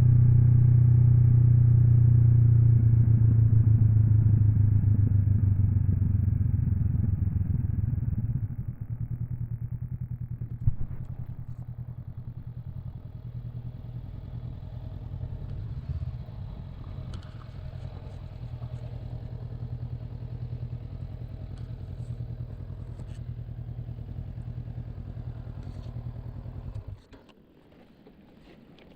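Honda NX 500 parallel-twin engine running, dropping to a quieter steady idle about eight seconds in. It cuts off suddenly near the end as the engine is switched off.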